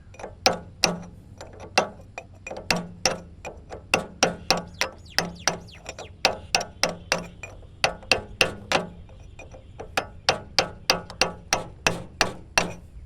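A hammer striking metal in a long run of sharp blows, about three a second, each with a brief metallic ring.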